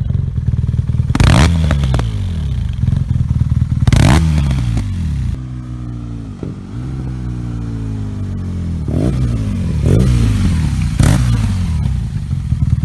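BMW R nineT Scrambler's air/oil-cooled boxer twin accelerating through the gears. The revs climb and drop sharply at two quick upshifts in the first four seconds, then fall away for a few seconds as the rider eases off, before the engine pulls hard again and shifts up once more near the end.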